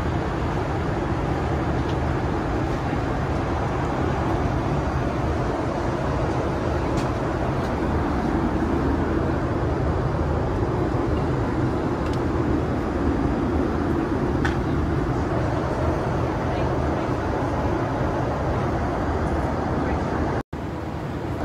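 Steady cabin noise of a Boeing 787-8 in flight: an even rush of engine and airflow noise. The sound drops out briefly near the end.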